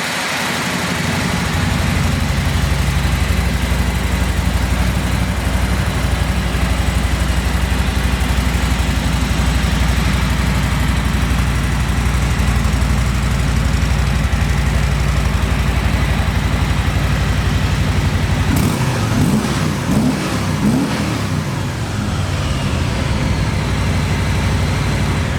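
Harley-Davidson Milwaukee-Eight 107 V-twin engine of a 2020 Softail Standard running at a steady idle, then revved with a few rising and falling throttle blips about three-quarters of the way through before settling again.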